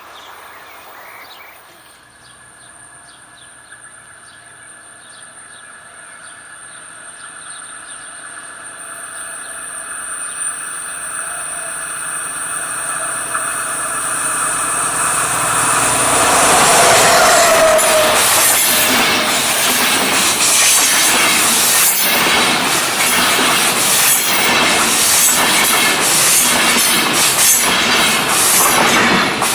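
A train approaching along the line, growing steadily louder for about fifteen seconds, then passing close by with a fast run of wheel clicks over the rail joints.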